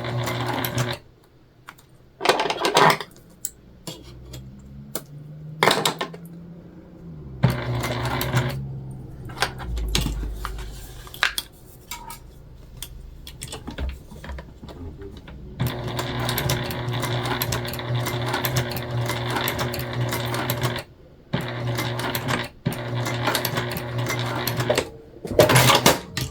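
Sewing machine top-stitching through vinyl and webbing in runs of steady stitching, stopping and starting again. Between the runs come sharp clicks and handling noises.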